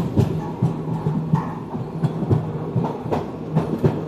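Express passenger train running on the line: a steady low hum with frequent irregular knocks and clatter from the wheels and coach over the rails.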